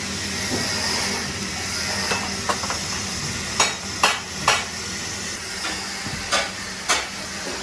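Several sharp metallic clinks and knocks from tools and brake parts being handled in drum-brake work, over a steady hiss and low hum. Three come close together about halfway through, and two more near the end.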